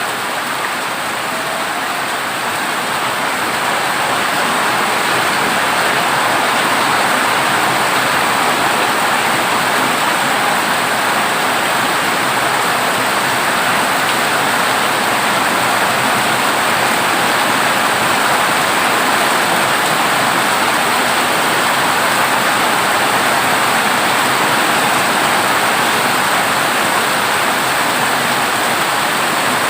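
Heavy rain pouring onto a corrugated zinc roof, a dense steady hiss that builds a little over the first few seconds and then holds.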